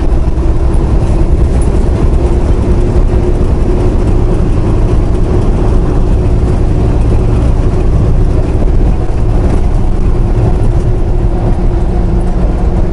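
Semi-truck driving at highway speed, heard inside the cab: a steady loud low rumble of engine and road noise with a constant drone.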